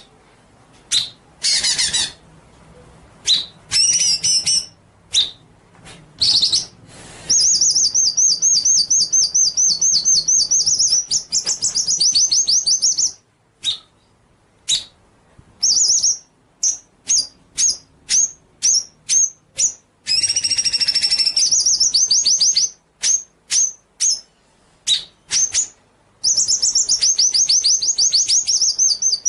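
Songbird song on a training recording: sharp high chirps in quick succession alternating with long, very rapid high trills that run for several seconds at a time, separated by brief pauses.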